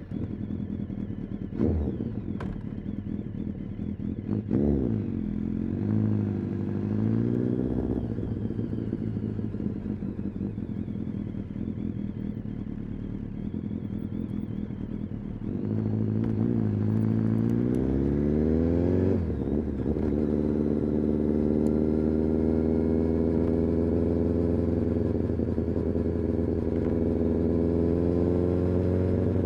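Kawasaki ZX-10R inline-four sportbike engine and exhaust under way. The revs rise twice, then drop sharply at a gear change, and the engine settles into a steady run whose pitch climbs slowly. A few sharp clicks come in the first seconds.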